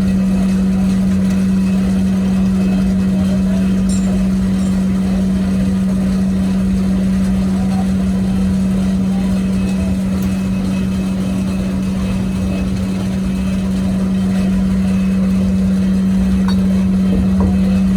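A machine running with a steady, loud hum at one constant pitch over a low rumble.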